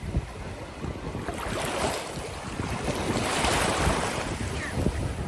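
Waves washing up on the beach, swelling twice, about a second and a half in and again around three and a half seconds in, with wind rumbling on the microphone.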